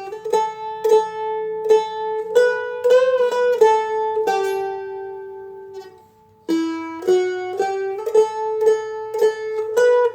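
A Seagull Merlin being picked: single melody notes on the first string over the ringing drone strings, with a string bend that rises and falls back about three seconds in. A long note rings and fades out, a brief pause follows, and the picking starts again about six and a half seconds in.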